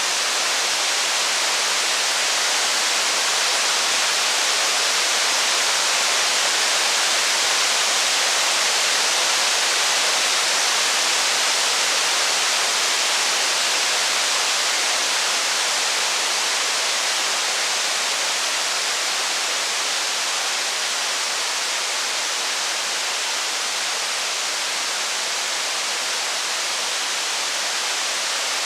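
Heavy rain falling as a steady, even hiss, with no separate drops, crackles or thunder standing out.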